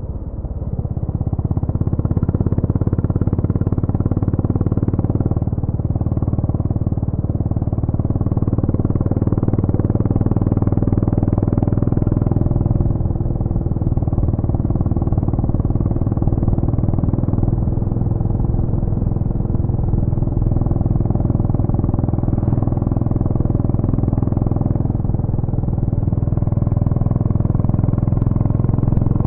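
Honda GB350's air-cooled single-cylinder engine running, with a steady exhaust note. The level dips briefly at the start, then holds steady.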